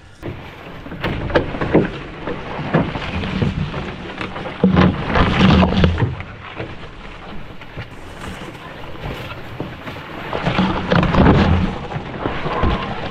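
Footsteps and brush rustling against the load along a rough, overgrown portage trail, with uneven low rumbling bumps on the microphone, loudest about five and eleven seconds in.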